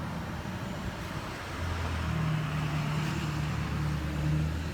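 A motor vehicle's engine running nearby: a steady low hum that comes in about a second and a half in, over outdoor background noise.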